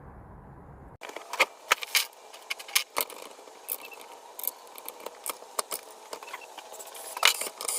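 Small metal parts and hand tools clinking, tapping and scraping in irregular quick clicks, starting after a sudden cut about a second in; before that a low steady rumble.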